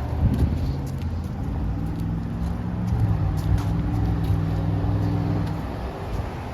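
A nearby engine running at a steady low pitch, fading out about five and a half seconds in.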